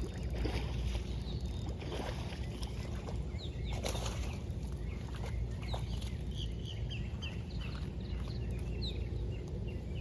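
A hooked peacock bass thrashing and splashing at the surface during the fight, over a steady low rumble. Birds chirp repeatedly from about halfway through.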